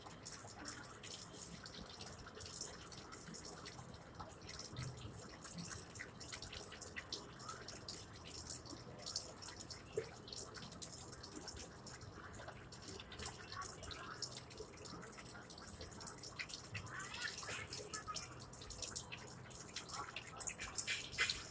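Water dripping: a dense, irregular patter of small, sharp drips over a faint steady background hiss.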